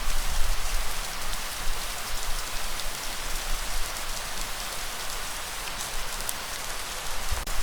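Steady rain falling hard, a dense hiss with many close, sharp drop hits, over a low rumble.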